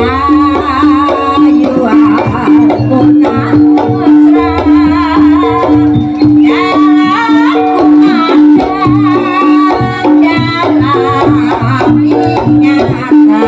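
Live Javanese jaranan ensemble music: drums beat under a low note struck over and over at a steady pace, and a wavering melody line comes and goes above them.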